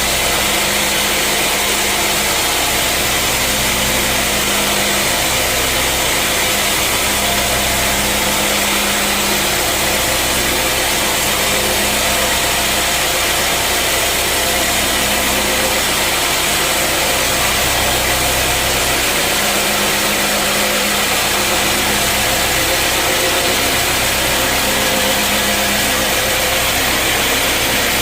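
Sawmill machinery running steadily: a loud, even mechanical noise with a constant low hum and a dense hiss above it, with no clear pauses or changes.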